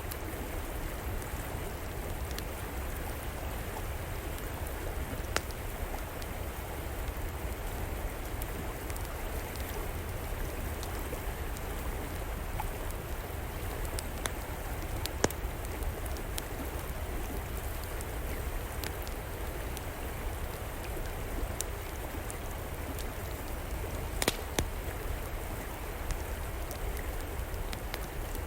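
A river flowing steadily, with a wood fire crackling over it in scattered sharp pops, two louder ones close together late on.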